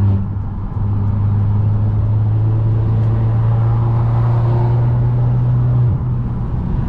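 Car engine drone under light, steady acceleration, creeping slightly up in pitch, then dropping away about six seconds in as the throttle eases or a gear changes.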